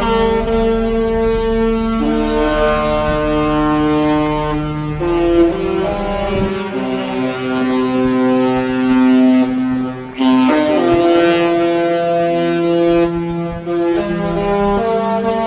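A cruise ship's multi-tone horn sounding a slow tune in long held chords, the pitch changing every second or few.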